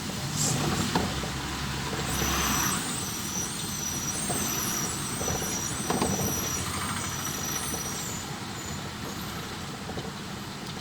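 Trucks and other road traffic passing, with a short hiss about two seconds in and thin high squeals for several seconds after it.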